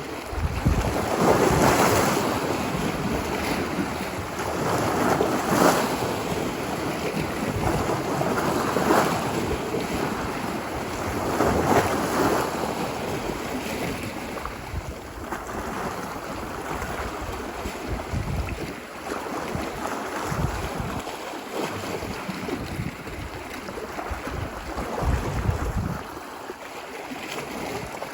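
Ocean waves washing ashore, the surf swelling and receding about every three to four seconds in the first half and settling lower after that. Wind buffets the microphone with low rumbles in the second half.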